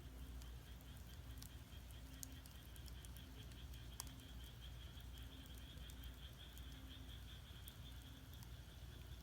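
Firewood burning in a traditional Korean agungi firebox, giving faint scattered crackles and pops over a low rumble. A steady pulsing high trill and short repeated low croaks of frogs sound behind it.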